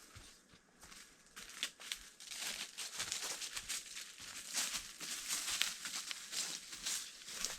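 Dry rustling and crinkling: dense, irregular crackles that grow busier about a second and a half in.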